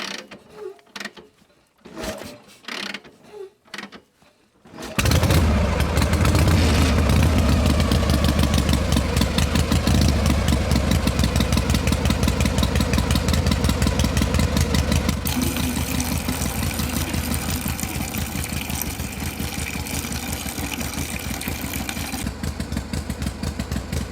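A few scattered clicks and knocks, then about five seconds in a small motor starts abruptly and runs steadily with a fast, even beat; its sound thins a little about fifteen seconds in.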